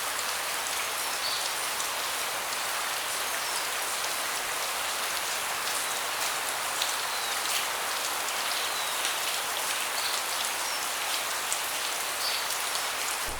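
Steady rain falling on a wooden deck, a constant hiss with many individual drops tapping and dripping.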